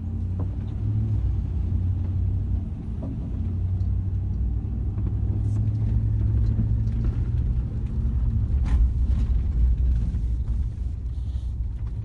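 Vehicle engine running with a steady low rumble, with a few faint clicks over it.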